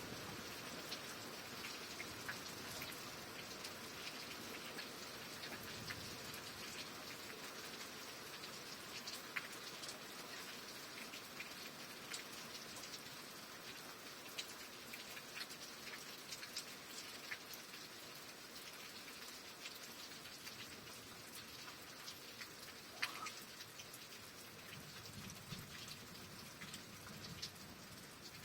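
Steady rain, with many individual drops tapping sharply on a surface over the hiss, and one louder drip late on.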